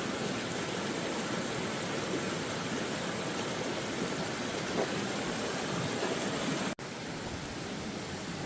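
Steady noise of water, rain and floodwater on a rainy day, breaking off for an instant near the end and resuming a little quieter.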